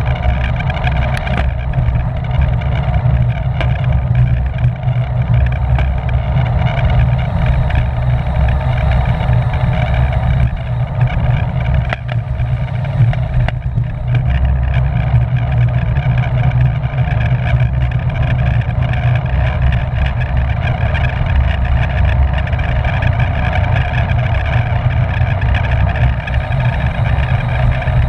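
Steady, loud wind rushing and buffeting over the microphone of a camera carried on a bicycle at race speed, with a low rumble.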